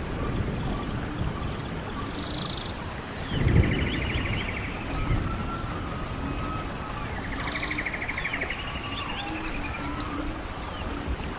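Songbirds singing: two stretches of song with rapid trills and swooping whistled notes, over a low rumble that swells briefly about three and a half seconds in.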